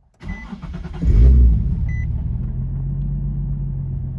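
Nissan 370Z's 3.7-litre VQ V6 cranking and catching, flaring up briefly about a second in, then settling into a steady idle. This is the first start after fitting a resonated Motordyne Y-pipe ahead of a Tomei exhaust, with the owner hoping for no leaks. Two short electronic beeps sound during the start.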